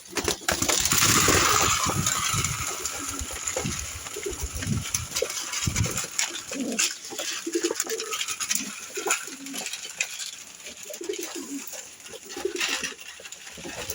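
Domestic pigeons cooing repeatedly at feeding time. A loud rush of rattling noise for about two seconds near the start, as feed is poured in, then many small clicks and taps.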